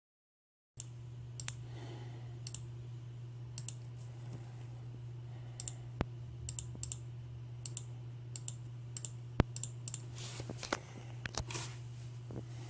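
Scattered, irregular clicks from a computer mouse and keyboard being worked, over a steady low hum; the sound starts abruptly about a second in after dead silence.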